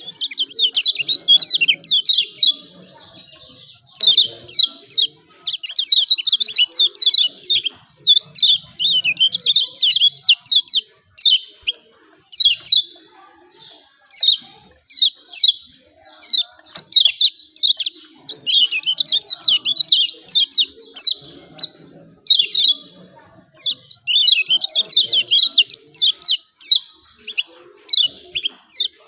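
Kecial kuning (a Lombok white-eye) giving its rapid, excited 'ciak ciak' chirping: quick runs of short, high, falling notes in bouts of a second or two with brief pauses between. This is the recording bird keepers play to provoke a reluctant white-eye into singing.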